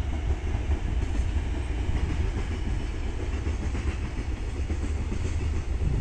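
Container freight train hauled by an EF510 electric locomotive passing: a steady low rumble of the wagons running over the rails.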